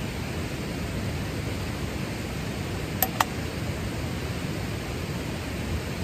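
Steady rushing background noise, with two quick clicks close together about three seconds in as a plastic lid is pressed onto a small cup.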